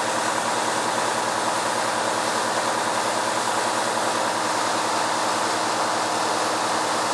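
Steady, loud rush of water gushing from a fire hydrant knocked over by a car, with a low idling engine hum underneath.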